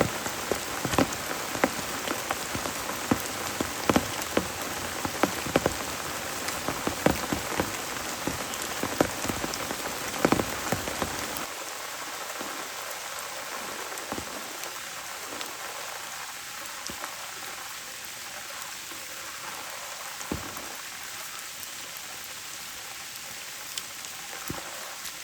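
Steady rain hiss with frequent loud, sharp drops striking a surface close by. About halfway through it changes abruptly to a softer, even rain with only an occasional drop hit.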